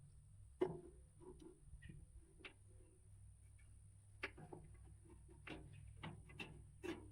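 Scattered light clicks and taps, about a dozen spread unevenly over several seconds, of hardware and metal parts being handled during a test fit. A faint steady hum lies underneath.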